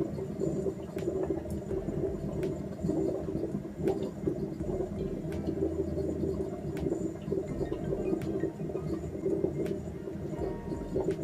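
Sunbeam C30A vacuum coffee maker gurgling and bubbling steadily as the heater, switched from high to low, lets the brewed coffee be drawn back down from the top bowl into the lower pot.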